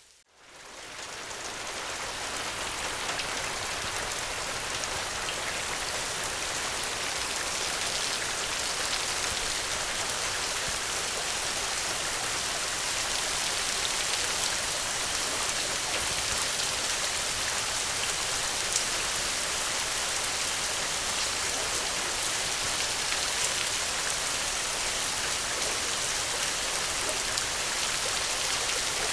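Steady rain falling, fading back in over about two seconds from a brief dip to near silence at the start, then holding even with the odd single drop ticking out.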